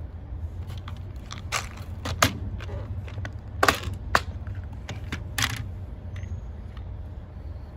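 Hand work on electrical wiring: a scatter of sharp clicks and crinkles as two motor leads are twisted together into a connector, over a steady low hum.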